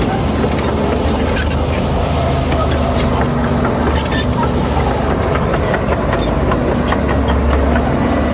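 Heavy diesel earthmoving machinery running steadily, a continuous low engine drone with scattered short metallic clicks.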